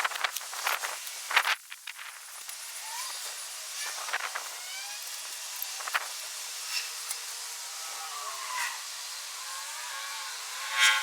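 Knocks and rustling from a portable garage tent's cover and frame being worked on, over a steady hiss, with faint gliding squeaks and a short louder squeal near the end.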